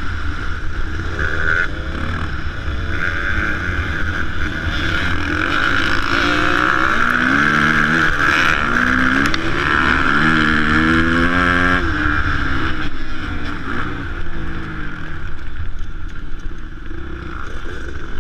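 Motocross bike engines revving on the track, the pitch rising and falling in steps several times in the middle, over a steady wind rumble on the microphone.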